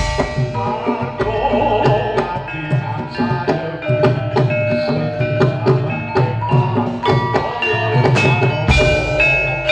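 Gamelan accompaniment for a horse dance: struck bronze metallophones ringing in interlocking patterns over steady drum strokes, with a deeper low stroke near the end.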